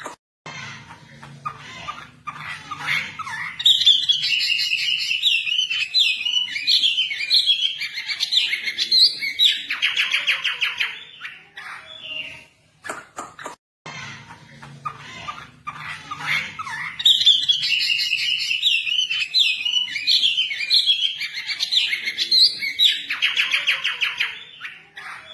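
Wambi bird song, a masteran loop: fast chattering phrases of chirps and whistles that end in a rapid buzzy trill. The same sequence plays twice, each pass about thirteen seconds long.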